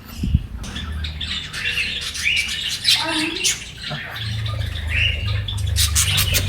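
Many caged birds at a bird farm squawking and chirping together, a jumble of overlapping calls, over a steady low rumble.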